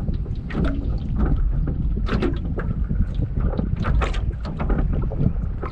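Wind buffeting the microphone as a steady low rumble, with many irregular sharp clicks and knocks through it.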